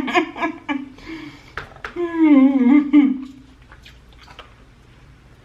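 A woman humming with her mouth closed, pitched "mmm" sounds that bend up and down, one near the start and a longer one about two seconds in. After that only faint mouth sounds of chewing are heard.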